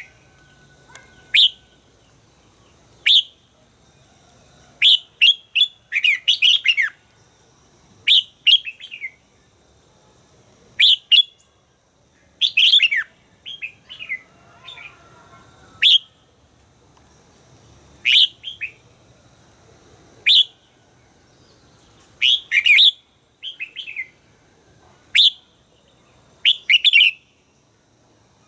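Red-whiskered bulbul singing: short, loud, chirping phrases of a few quick notes, repeated every two seconds or so.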